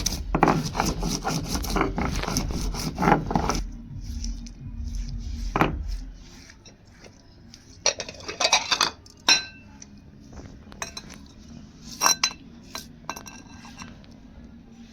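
Metal kitchen utensils and cookware clattering and scraping for the first few seconds, then scattered clinks, a few of which ring briefly.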